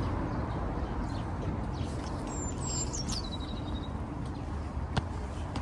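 A bird calls with a few short high chirps about two seconds in, then a whistle that slides down and holds its pitch for about a second. It sounds over the steady low rumble of city traffic, and a single sharp click comes near the end.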